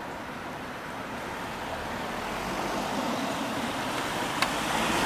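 Street traffic, with a vehicle drawing closer and getting steadily louder; one sharp click about four and a half seconds in.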